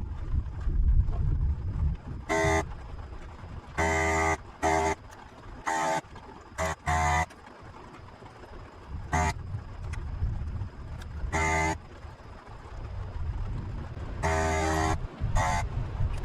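Electric desoldering tool's vacuum pump switching on and off in short bursts, about ten times, as the solder is sucked off the joints of the inverter's components. Each burst is a steady buzzing tone that starts and stops abruptly.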